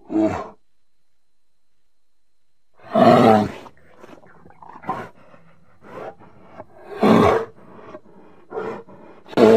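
Brown bears vocalizing in a series of short, rough calls about half a second each, with quiet between. The loudest come about three seconds in, at seven seconds, and at the end, with softer ones in between.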